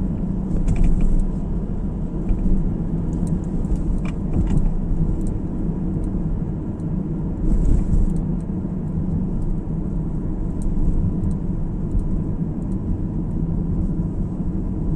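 Steady road and engine rumble of a car being driven, heard from inside the cabin, with faint clicks and rattles now and then.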